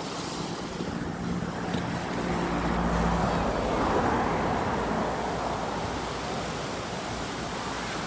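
Water rushing over the dam's weir: a steady rushing that swells about two seconds in and eases off again.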